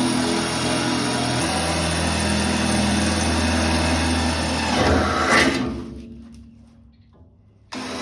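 Handheld electric power tool running steadily under load, then released about five seconds in and winding down to a stop.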